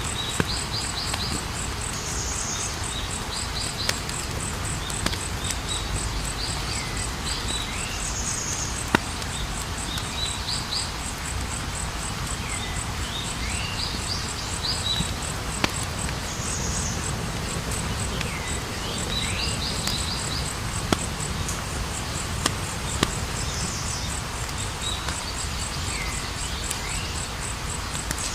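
Campfire crackling, with scattered sharp pops over a steady hiss. An insect trills without pause, and a bird repeats a short call every few seconds.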